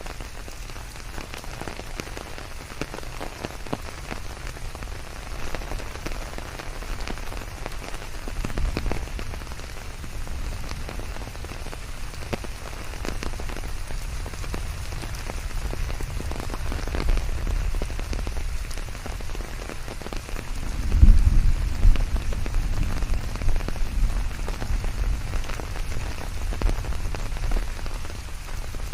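Steady rain falling on surfaces, with many individual drops ticking through the hiss. A low rumble swells briefly about a third of the way in and more strongly about two-thirds of the way in.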